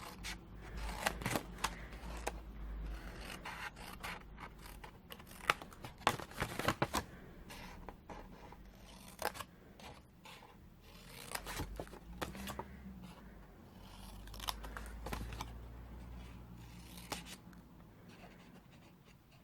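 Scissors snipping through cardstock in short, irregular cuts, with the card being handled and turned between cuts.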